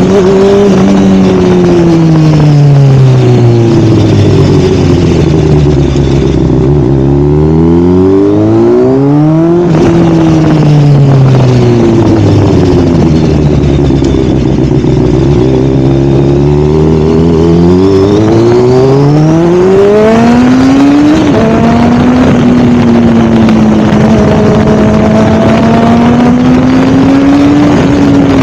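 Sportbike engine running through a new aftermarket exhaust. Its note falls slowly, jumps suddenly back up about ten seconds in, falls again, then climbs and holds a steady, slightly wavering pitch for the last several seconds.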